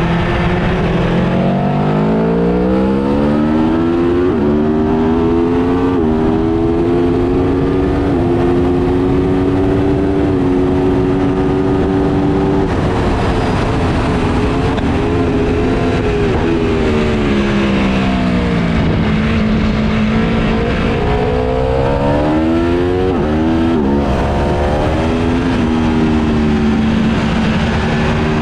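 Aprilia Tuono V4 Factory 1100's V4 engine ridden hard on a racetrack, heard on board with wind rushing over the microphone. The revs climb with several quick upshifts and are held high for a few seconds. About two-thirds of the way through they fall away through downshifts under braking, then climb again through the gears.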